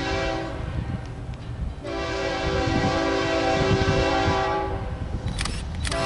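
Train horn sounding a chord of several notes in long blasts: one ends just after the start, another runs from about two seconds in to about four and a half seconds, over the low rumble of the moving train.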